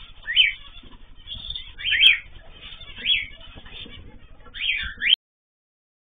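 Small cage bird calling: short, loud rising chirps about once a second, some coming in quick pairs, over a low rumble. The sound cuts off suddenly about five seconds in.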